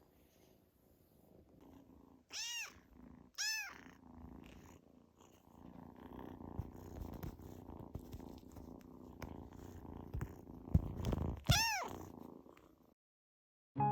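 A Scottish Fold kitten purring steadily, the purr growing louder about halfway through, broken by three short, high meows that rise and fall in pitch: two close together a couple of seconds in and one near the end.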